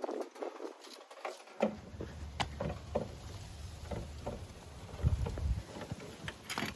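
Car jack being cranked down to lower the car: irregular clicks and knocks, with a low rumble starting about a second and a half in and fading near the end.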